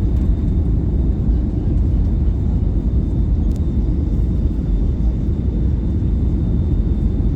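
Steady low rumble of engines and airflow inside the cabin of an Airbus A321neo during its landing, with a faint thin whine held above it.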